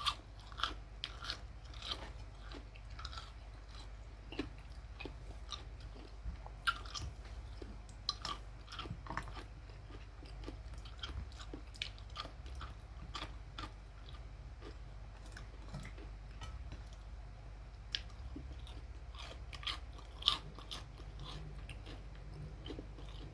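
Crunching and chewing of crispy breaded fried chicken, close to the microphone: irregular small crunches and bites scattered throughout.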